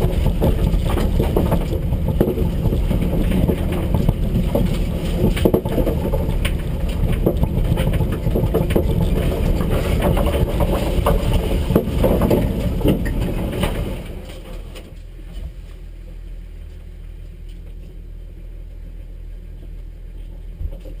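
Rally car's engine idling at a standstill, heard from inside the stripped-out cabin with a lot of rattling. About two-thirds of the way through the sound drops sharply, as the engine is switched off, leaving a quieter steady low hum.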